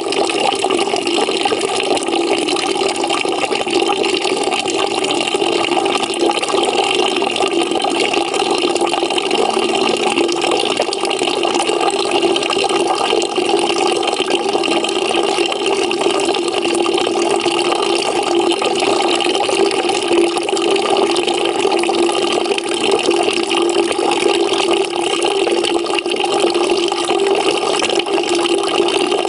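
Water running from a tap into a bucket, a steady, even splashing and gurgling fill.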